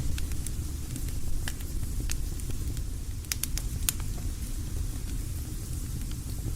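Campfire crackling: sharp, irregular pops and snaps over a low, steady rumble, with the pops thinning out over the last couple of seconds.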